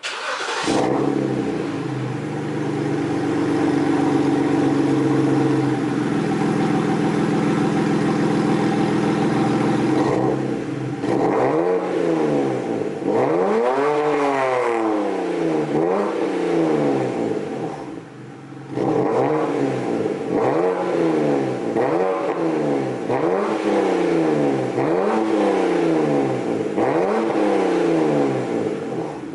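BMW N52B25 inline-six exhaust, with decat headers and a custom axle-back, heard from outside the car: the engine starts warm and runs at a steady idle for about ten seconds, then is revved about nine times in a row, each rev rising and falling roughly every two seconds.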